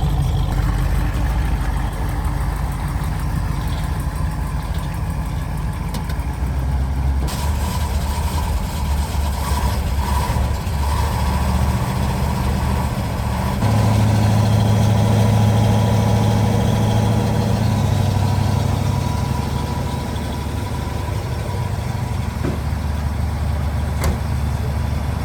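Vehicle engine running steadily at a low pitch. The sound changes abruptly about seven and thirteen seconds in.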